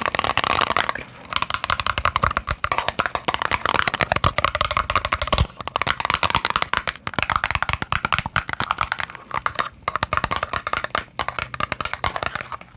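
Rapid, continuous tapping on a small box, many light taps a second, the box ringing a little with each tap.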